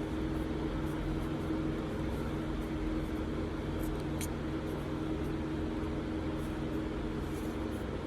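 Steady mechanical hum from a running machine in the room, with a few faint light clicks.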